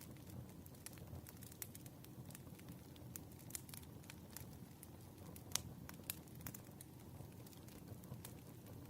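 Quiet wood fire crackling: a low steady rumble of burning logs with scattered sharp pops and snaps, the loudest about five and a half seconds in.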